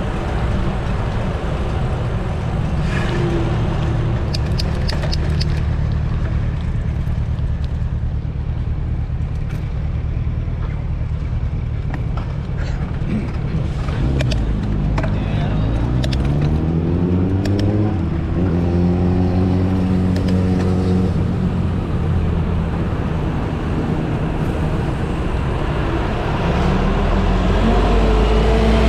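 Street traffic with a steady low engine rumble; about halfway through, one vehicle's engine climbs in pitch as it accelerates, then holds steady.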